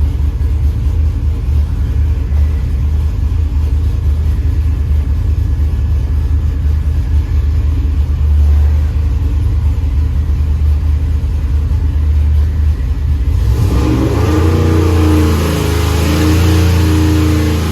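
Stroked 7.0-litre (427 ci) LS V8 running on an engine dyno, holding a steady speed, then about thirteen seconds in climbing to higher revs with a brighter, harsher note. It is running on a base tune with no timing added and running fat (rich).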